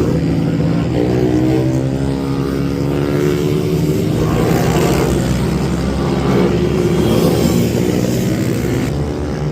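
Several small racing minibike engines running together, their pitches rising and falling as the bikes accelerate and ease off.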